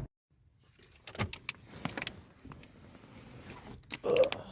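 Scattered small clicks and knocks of someone handling things in a parked truck, with a louder bump near the end.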